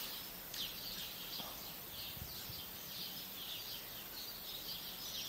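Small birds chirping, a steady run of short high chirps about two to three a second, over a faint background hiss.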